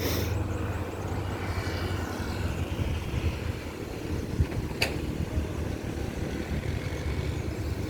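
Steady low engine rumble, with a single sharp click about five seconds in.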